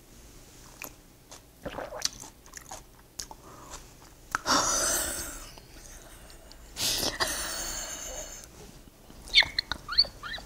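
Crisp chewing of a mouthful of kimchi, with two muffled breathy bursts of stifled laughter held back behind a hand, and short high squeaky giggles near the end.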